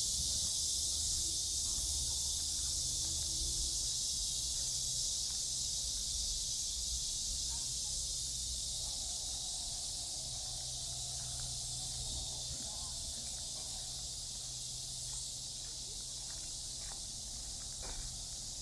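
A steady, high-pitched chorus of summer cicadas droning without a break, over a low rumble of city traffic, with faint voices of passers-by.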